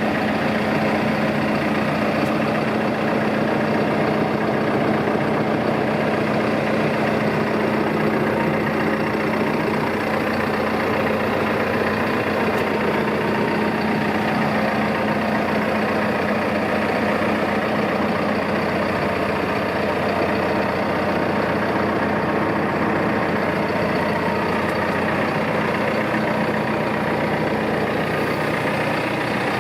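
2012 Landini Powermondial tractor's diesel engine idling, a steady even hum that holds at one speed.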